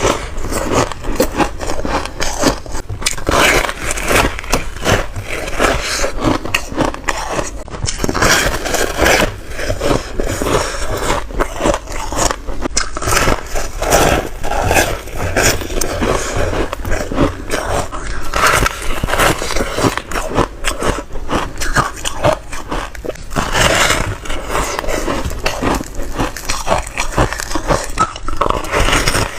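Foam ice being bitten and crunched close to the microphone: a continuous run of crisp crackling and crunching, bite after bite.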